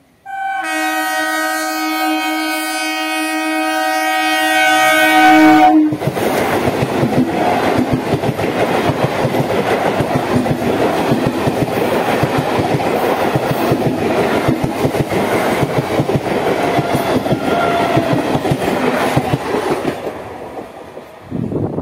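Indian Railways ICF electric multiple unit commuter train sounding a long, steady horn for about five seconds that cuts off sharply. Its coaches then pass at speed, with the wheels clattering rhythmically over the rail joints.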